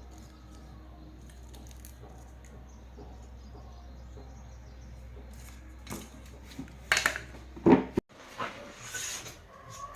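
A steady low hum, then a few sharp knocks and clatters of hard objects being handled about seven seconds in; the hum cuts off abruptly just after, leaving scattered lighter knocks.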